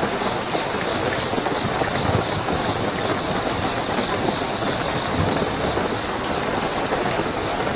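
Heavy, steady rainfall as a dense even hiss, with crickets giving a continuous high-pitched trill over it.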